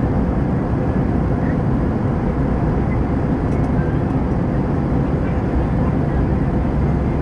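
Steady rush of cabin noise inside an Airbus A320-214, its CFM56 engines and airflow heard from a window seat near the front, even in level throughout.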